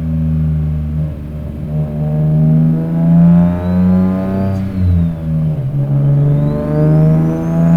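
Single-turbo Nissan 350Z's V6 (VQ35DE) pulling under acceleration. The revs climb twice, falling away about four and a half seconds in and again at the very end, and a thin high whistle rises and falls along with each pull.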